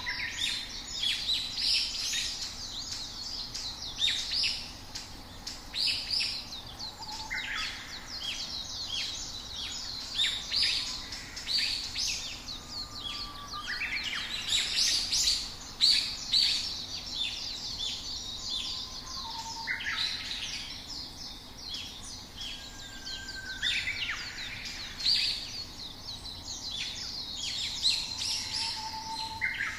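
Several songbirds chirping and singing at once: a dense, overlapping chorus of short high chirps and trills, with a few lower whistled notes scattered through it.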